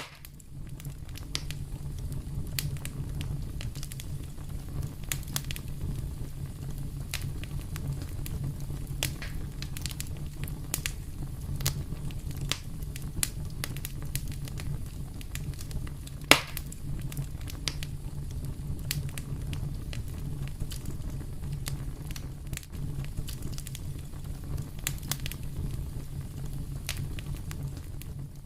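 Fireplace fire crackling: a dense run of sharp pops and snaps over a steady low rumble of the flames, with one much louder pop about halfway through.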